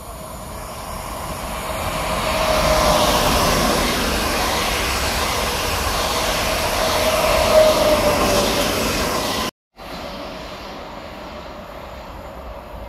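A PKP Intercity electric multiple unit passes through at speed. Its rushing wheel noise swells over the first few seconds and carries a steady whine. The sound breaks off suddenly near the end and drops to a quieter, steady rumble.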